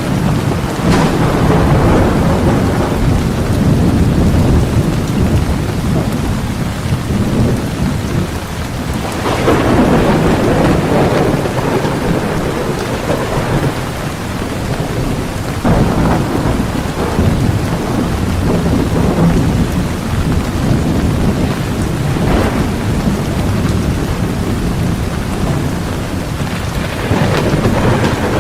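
Heavy rain pouring steadily through a thunderstorm, with rolls of thunder rumbling in and out several times, the strongest about nine seconds in.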